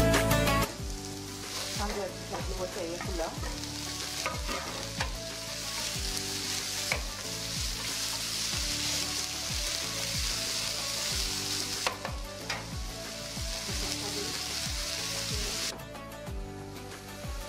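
Sliced onions and bell peppers sizzling in olive oil in a nonstick frying pan as they are stirred with a wooden spatula. About 16 seconds in the sizzle drops away sharply as a glass lid goes on the pan.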